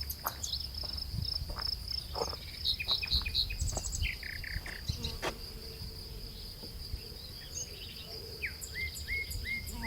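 Outdoor ambience: a small bird chirping in short runs of repeated notes, over a steady high-pitched whine and a low rumble.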